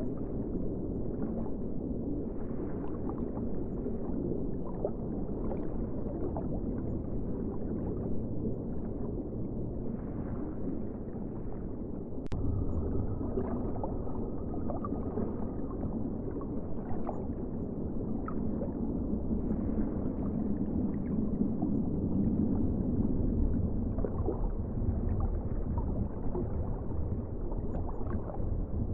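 Ocean water, low and muffled, a steady rumble with small gurgles. It grows a little louder about twelve seconds in.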